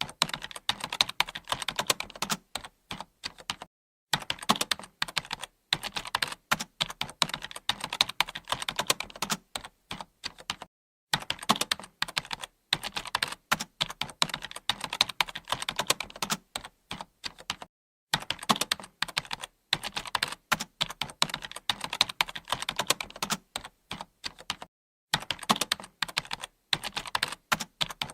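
Computer keyboard being typed on, a fast steady run of key clicks broken by short pauses every several seconds.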